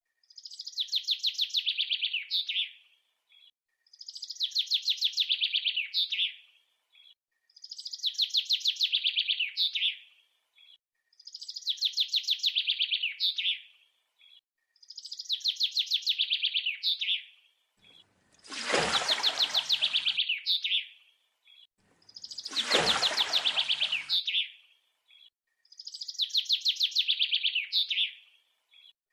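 A bird's fast chirping trill, the same phrase of about two and a half seconds repeated every four seconds or so. A little past halfway come two louder rushing noises of about two seconds each.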